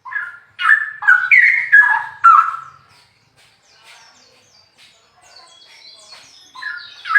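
Straw-headed bulbul (cucak rowo) singing loudly in rich, bubbling phrases of falling warbled notes. A quieter stretch of higher twittering comes in the middle, and the loud song starts again near the end.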